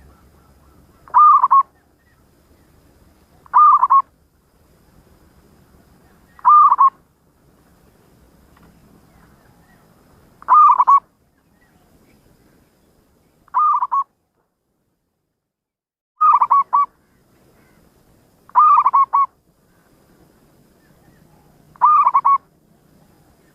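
Zebra dove (perkutut) cooing: eight short bursts of quick coo notes, one every two to four seconds.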